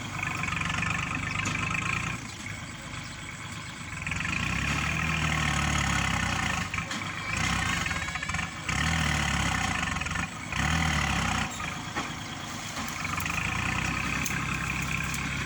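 Kubota tractor's diesel engine working, its revs swelling and dropping back several times as it pushes soil.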